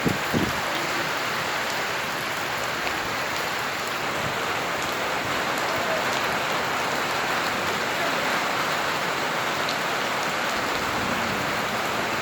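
Heavy rain falling steadily, a continuous even hiss of rain on surfaces, with two brief low thumps right at the start.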